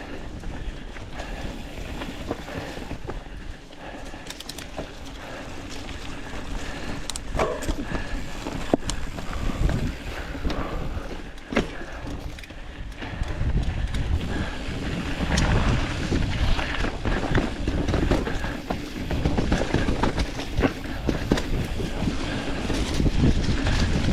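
Specialized Status 160 mountain bike descending a dirt trail: wind noise on the microphone and tyres rumbling over the ground, with frequent sharp knocks and rattles from the bike over rough spots. The rumble grows louder and rougher about halfway through.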